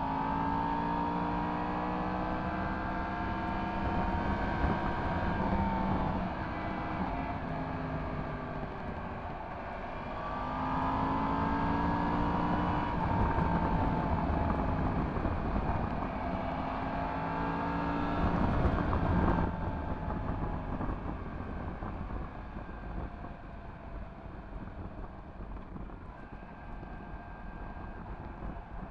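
Yamaha MT-10 SP's crossplane inline-four with an Akrapovic exhaust, ridden through bends: the engine pitch climbs and falls in two long pulls. After a brief loud burst about two-thirds of the way in, the engine goes quieter and wind noise takes over.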